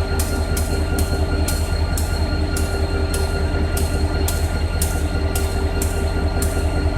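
Train running slowly, with a steady low rumble and a short high-pitched hiss or click repeating about twice a second.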